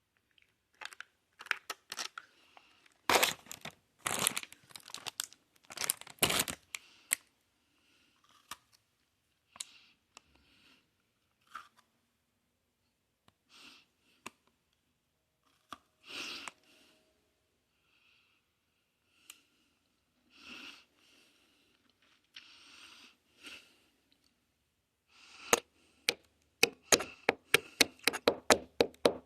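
Close-miked crinkling and tearing of crisp cookie packaging in scattered short bursts, ending in a fast run of sharp clicks.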